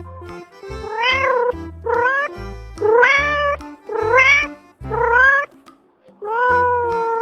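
A domestic cat meowing repeatedly, about six meows roughly a second apart, each rising in pitch. The last meow, near the end, is longer and held level.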